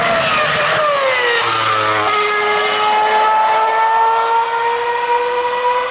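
Formula One car's high-revving 2.4-litre V8 engine: its pitch drops over the first second and a half, then it settles into a steady note that climbs slowly.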